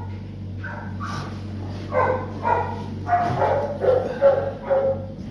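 A dog barking and yipping in a quick run of short calls that start about a second in, over a steady low hum.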